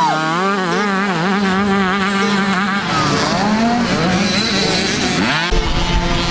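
50cc two-stroke dirt bike engines racing, their pitch wavering quickly up and down as the throttle is worked. A little after five seconds the pitch falls as a bike goes by, and a low rumble comes in.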